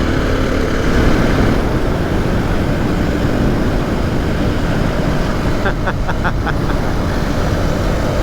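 KTM 500 EXC dirt bike, a single-cylinder four-stroke, running steadily under way. A quick run of about six sharp clicks comes a little past the middle.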